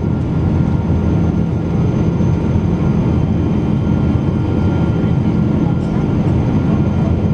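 Steady low drone of cabin noise inside a Boeing 777-200 airliner, from engine and airflow.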